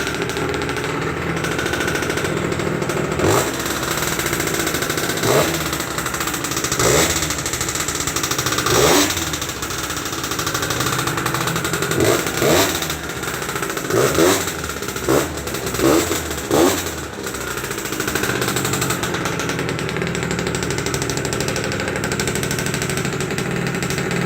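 DRR 50's small engine running just after a cold start, with the throttle blipped in short revs about ten times, in a cluster in the middle, then settling back to a steady idle.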